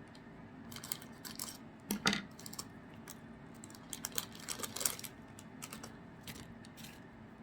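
Hands opening a foil trading-card booster pack and handling the cards: irregular crinkles, clicks and rustles, loudest about two seconds in and again around four to five seconds in.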